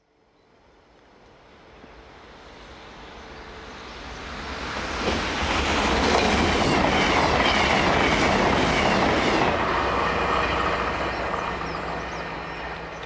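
CrossCountry Voyager diesel multiple unit approaching and passing at speed: a rush of wheels on rail and underfloor engines that builds, peaks with a rapid clickety-clack of wheels over rail joints as the cars go by, then fades away.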